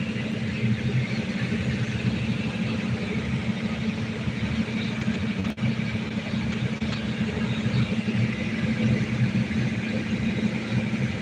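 Steady low drone of running machinery, with a momentary break about five and a half seconds in.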